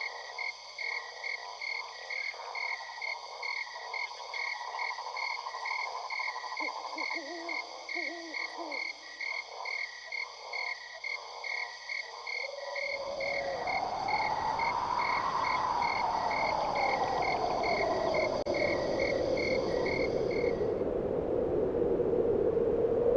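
Frog-like calls repeating in a steady pulsing rhythm. About halfway through a hiss comes in, carrying a slow tone that rises and falls in pitch. The calls stop near the end.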